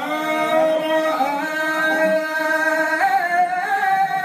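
A man's voice in melodic Qur'an recitation, holding one long drawn-out vowel with slow ornamental wavers, then stepping up in pitch about three seconds in.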